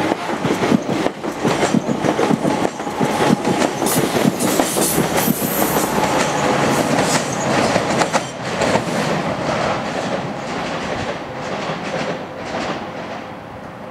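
A regional multiple-unit passenger train passes close by, its wheels clattering over the rail joints in quick, rapid knocks over a steady hum. The clatter fades away during the second half as the train draws off down the line.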